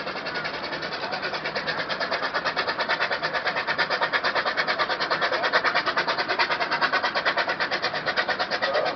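Wallace & Stevens Advance steam roller working under load as it pulls a sledge: rapid, even exhaust beats, about five a second, growing louder through the middle.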